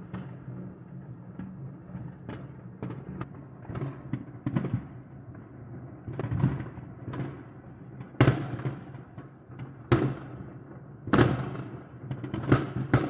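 Fireworks going off: scattered small pops and crackles, then several loud bangs roughly a second apart in the second half.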